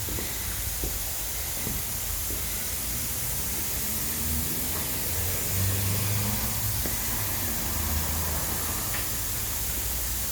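A car engine passing, rising and fading in the middle, over a steady hiss.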